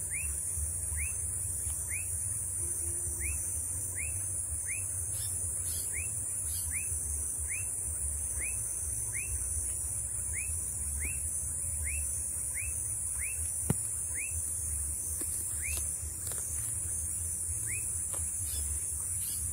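A bird calling: a short high note sliding downward, repeated about every three-quarters of a second and thinning out near the end, over a steady high hiss and a low rumble. A single sharp click about two thirds of the way in.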